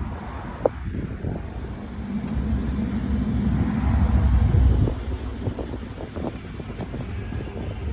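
Low vehicle rumble that swells about four seconds in and then eases, with a single sharp click about a second in.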